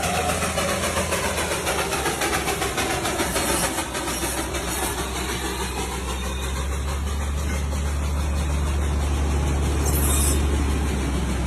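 A heavy engine rumbles steadily and grows louder over the second half, with a short hiss about ten seconds in.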